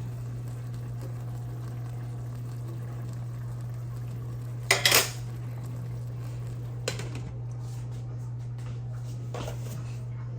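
A metal utensil knocking against a cooking pot: a quick cluster of clanks about halfway through, a lighter clink about two seconds later and a faint one near the end, over a steady low hum.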